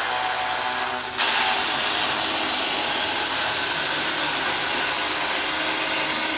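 1965 Marx Big Job toy dump truck driving forward with its Zazoom 'Sound of Power' motor-noise simulator running: a loud, steady mechanical drone that gets louder about a second in.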